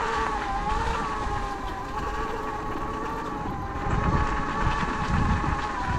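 Sur-Ron Light Bee X electric dirt bike's motor whining steadily under way. The pitch dips briefly about half a second in and then holds, over an uneven low rumble.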